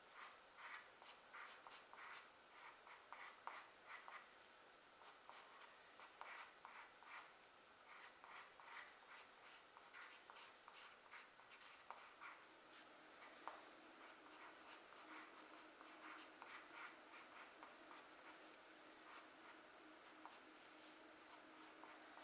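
Charcoal pencil scratching on drawing paper in quick short strokes, several a second, as tree branches are sketched; faint.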